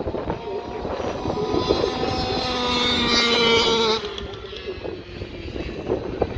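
Dirt bike engines racing: one bike's engine revs up, its pitch climbing for about three seconds, then drops off suddenly about four seconds in, and another engine starts climbing near the end, over a low rumble and wind on the microphone.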